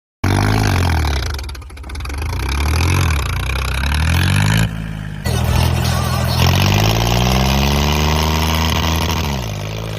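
John Deere tractor's diesel engine revving hard, its pitch dropping and climbing again several times. It cuts off abruptly about halfway through, then revs up again, holds high and falls away near the end.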